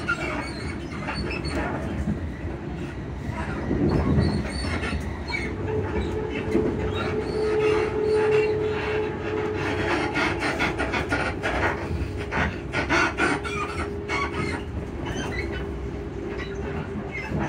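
Interior running noise of a Class 334 electric multiple unit at speed: a steady rumble from the bogies and suspension, with a hum that rises about six seconds in and fades by about ten. Clusters of knocks and rattles come through the car body, thickest in the second half.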